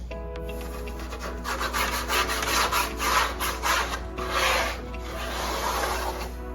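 Scrubbing: a run of rubbing strokes wiping down a surface, loudest in the middle, over background music with held notes.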